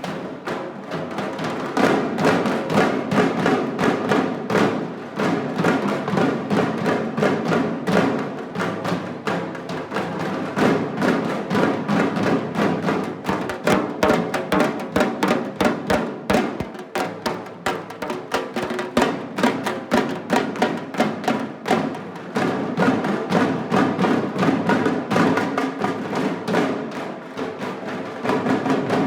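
Percussion-led music with fast, steady drumming.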